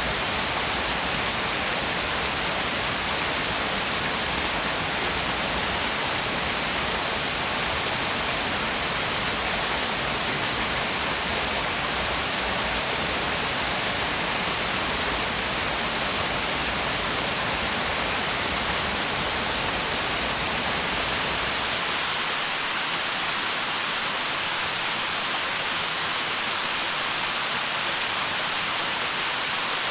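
Waterfall: water falling and splashing in a steady, even rush. About three-quarters of the way through, the sound thins and loses its deepest rumble and highest hiss.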